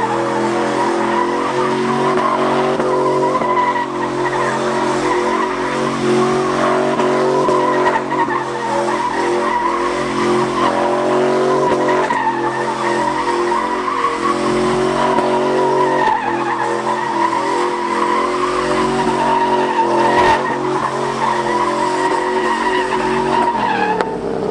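Vehicle tyres squealing in one long, continuous skid over a steadily running engine, as in a drift or donuts. The squeal fades near the end.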